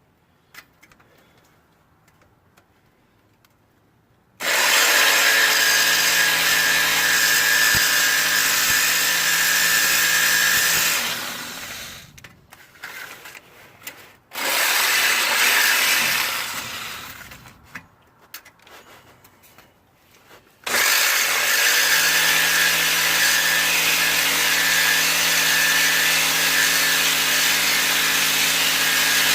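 A power tool cutting through a steel exhaust pipe, after a few seconds of near silence. It runs in three stretches, starting about four seconds in, again briefly mid-way, and again from about two-thirds through. A steady motor whine sits under the rasp of the cut.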